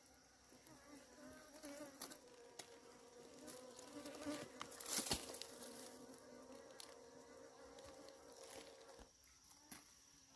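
Bees buzzing close by, a steady, slightly wavering drone that stops about nine seconds in, with scattered clicks and rustles and one sharper crackle around the middle.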